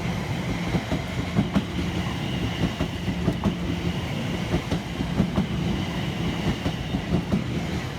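Class 720 Aventra electric multiple unit moving along the platform, with a steady electric hum and a constant clatter of wheels over rail joints.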